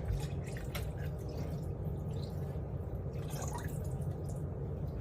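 Water dripping and trickling, with a few light clicks over a steady low hum.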